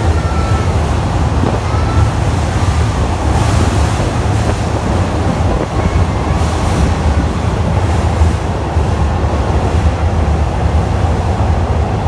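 Train running noise heard from an open-air trolley car: a steady, loud rumble of wheels on the rails mixed with rushing wind, with a few faint short squeals early on.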